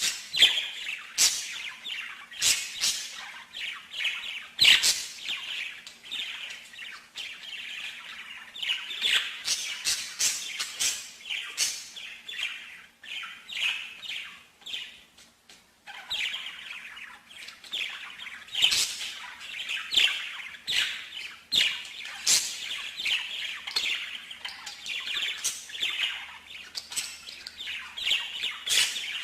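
A songbird singing a long, fast song of sharp chirps and trills, with a brief pause about halfway through.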